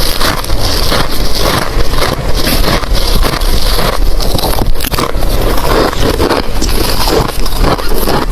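Close-miked crunching of hard ice being chewed: a dense, unbroken run of loud crunches.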